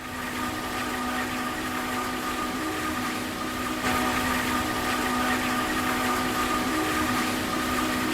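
A large engine running steadily under a loud rushing noise, with a constant whine on top, which steps up slightly about four seconds in.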